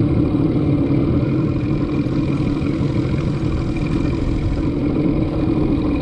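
Boat's motor running steadily, a constant low engine hum.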